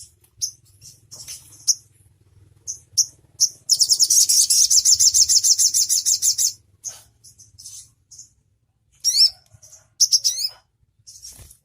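Konin songbird singing: scattered short, high chirps, then a fast, buzzy trill of about three seconds, and a few sharp sweeping notes near the end.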